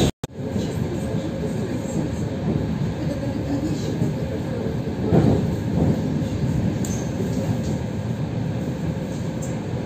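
Suburban electric train running on the rails, heard from inside the carriage: a steady rumble of wheels and carriage. There is a brief louder swell about five seconds in.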